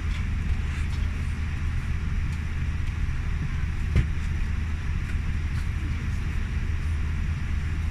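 Steady low hum and airy rush of a Boeing 787 Dreamliner's passenger cabin: ventilation and aircraft noise, with a single sharp knock about four seconds in.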